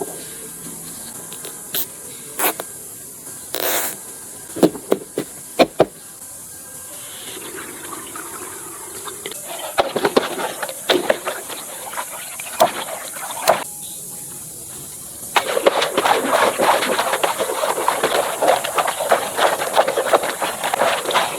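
Water sound effects: a few short sharp hits and hisses, then splashing water, turning into louder, steady rushing water about fifteen seconds in.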